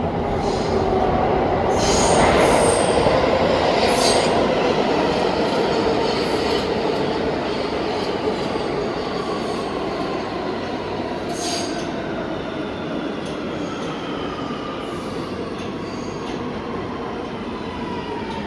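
NYC subway train running through an underground station, loudest a few seconds in, with sharp wheel squeals. In the second half its whine falls slowly in pitch as the train slows down.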